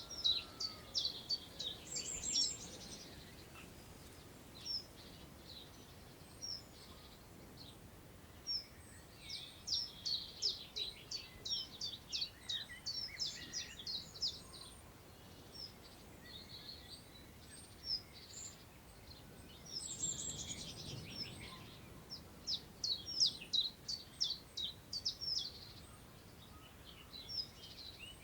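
Songbirds singing: bouts of quick, high, repeated notes a few seconds long, with pauses and single chirps between them. Under them is a faint steady hiss of wind through long grass, which swells briefly near the middle.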